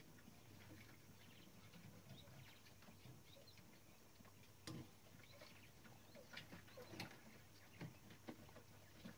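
Faint, scattered clicks and light scrapes of small metal typewriter parts and tools being handled during a repair, a few seconds apart over a low steady hum.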